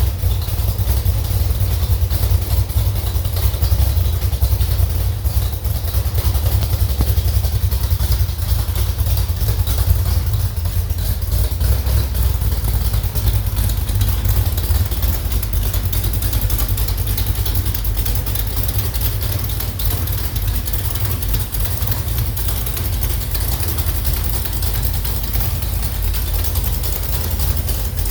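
Slover 305 engine running steadily on a test stand.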